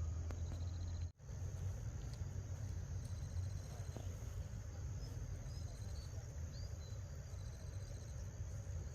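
Crickets and other insects chirping steadily, one trilling in short repeated pulses, over a steady low rumble. The sound drops out for a moment about a second in.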